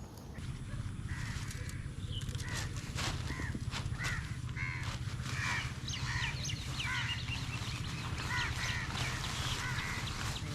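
Birds calling repeatedly, many short harsh caw-like calls one after another, with a steady low hum and a few sharp clicks underneath.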